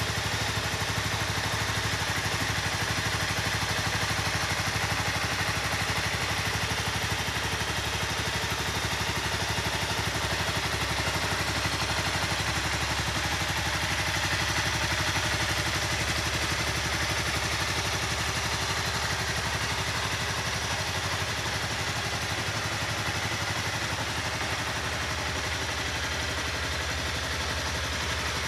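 Honda CBR250R's single-cylinder 250 cc engine idling steadily.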